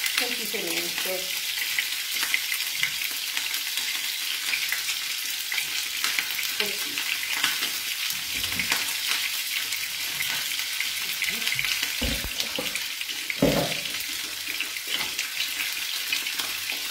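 Chopped artichoke pieces frying in oil in a small pot, a steady crackling sizzle, with a couple of dull knocks of cookware about three quarters of the way through.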